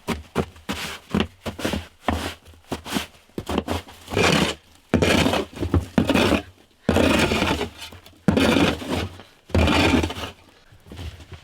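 Repeated scraping strokes, each lasting up to about a second and growing longer from about four seconds in, with short knocks between them.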